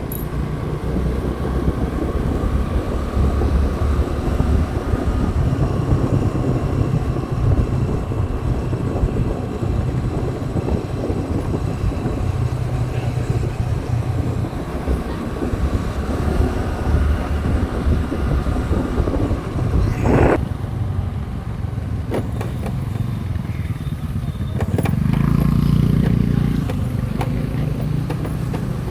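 Motorcycle running steadily on the road, its engine rumble mixed with wind noise on the microphone. A brief sharp sound comes about two-thirds of the way through, and the engine swells louder for a couple of seconds near the end.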